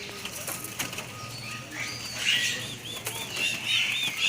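Many caged songbirds chirping and calling at once, with a quick run of repeated arched whistled notes in the second half and scattered clicks.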